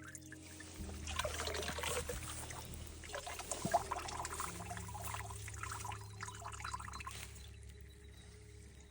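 Water splashing and trickling in a shallow paddy-field channel. The sound comes in irregular surges that fade out near the end.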